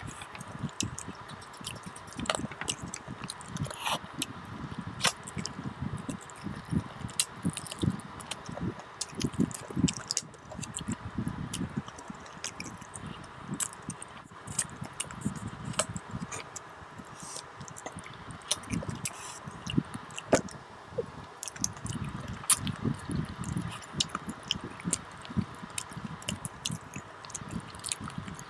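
Close-up wet chewing, sucking and lip-smacking of a person eating mutton paya (goat trotter) curry with rice by hand, with many irregular sharp clicks and squishes.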